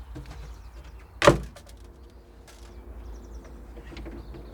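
A single sharp knock about a second in, with a few faint clicks and a faint steady hum in the background.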